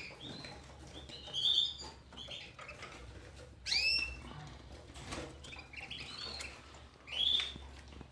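Canaries in a breeding cage giving short arched chirps, about five over several seconds, with faint clicks between them.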